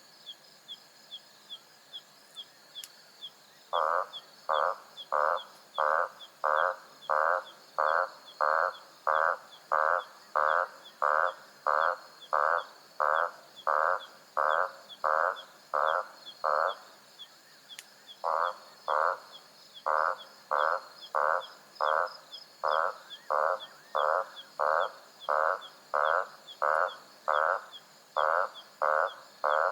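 A frog calling loudly in a steady series, about one and a half calls a second, beginning about four seconds in and pausing briefly past the middle. Under it runs a faint, fast ticking chorus of night insects or small frogs.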